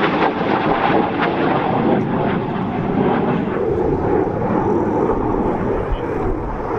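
Dassault Rafale fighter jet's twin Snecma M88 engines, a loud, steady jet noise; its higher hiss fades from about halfway through while the lower rumble stays.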